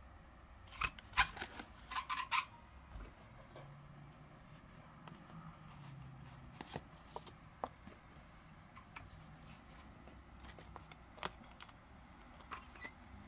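Scissors snipping: a quick run of sharp snips about a second in, then scattered light clicks and taps of small paper-craft tools being handled.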